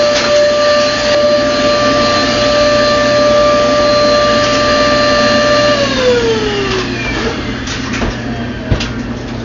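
Small handheld vacuum cleaner running with a steady high whine, then switched off about six seconds in, its motor winding down with a falling pitch. A few light knocks follow near the end.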